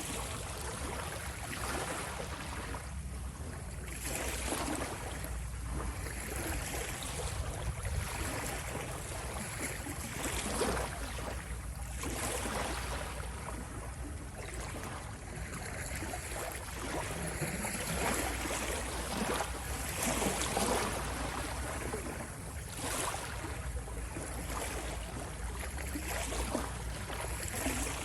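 Ocean waves washing in and breaking, swelling and easing every few seconds over a steady low rumble.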